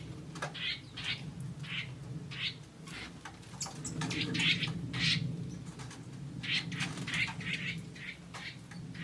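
Forest birds calling: short chirps repeated every half second or so, busiest around the middle, over a steady low hum.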